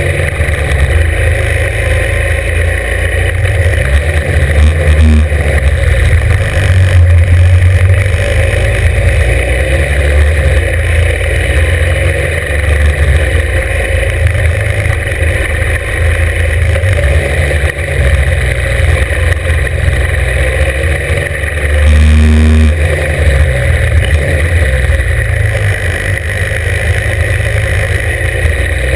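Norton 750 Commando's air-cooled parallel-twin engine running hard, heard from on the bike, its revs climbing and dropping again and again through gear changes.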